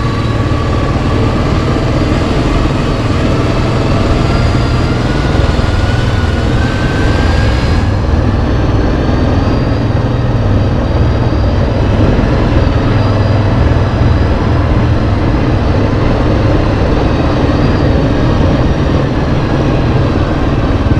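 Yamaha Kodiak 700 ATV's single-cylinder engine running steadily while riding, with a thin whine that rises slowly in pitch over the first eight seconds.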